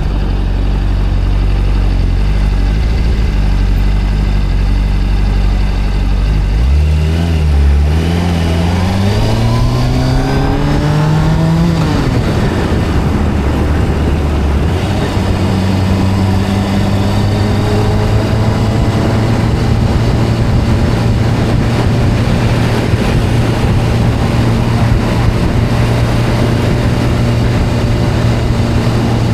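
Video-game motorbike engine sound: a steady low engine note, then revs climbing for about five seconds before dropping sharply, then a steady cruising drone for the rest.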